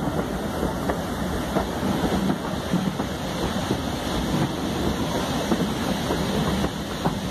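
Passenger carriage of a moving train running along the track: a steady rumble of wheels on rails with scattered clicks and knocks, and wind on the microphone held out of the window.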